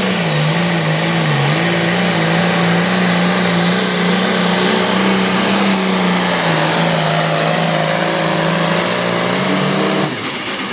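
Turbocharged diesel engine of a Limited Pro Stock pulling tractor at full power dragging the sled. The pitch wavers in the first second or two, holds steady, then sags a little under load before the sound stops abruptly about ten seconds in.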